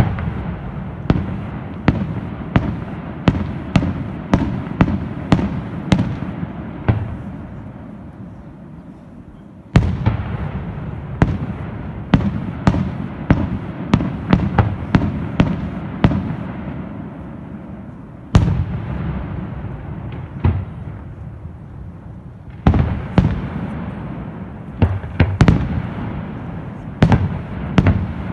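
Aerial firework shells bursting in a display, in rapid runs of sharp bangs two or three a second. Each run opens with a loud boom, and there are quieter rumbling lulls between the runs.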